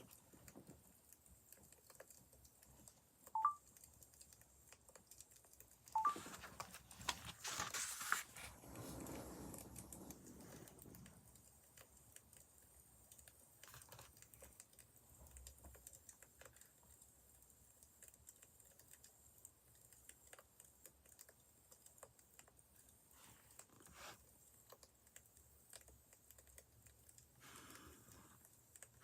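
Faint crackling of a wood fire: sparse small pops and clicks. A louder rustle comes in about six seconds in and fades out over the next few seconds.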